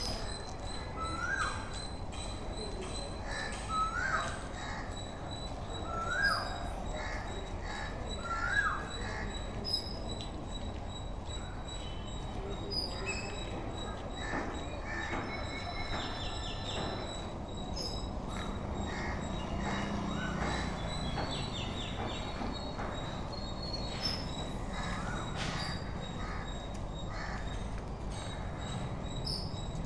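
Background ambience with birds calling: four short calls about two and a half seconds apart in the first nine seconds, then scattered faint chirps, over a steady hiss and a faint high whine.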